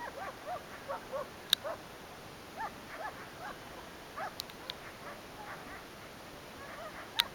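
Dogs giving short, irregular yips and barks, faint and quick, with no steady rhythm. Three sharp clicks fall among them, about a second and a half in, just past four seconds, and near the end.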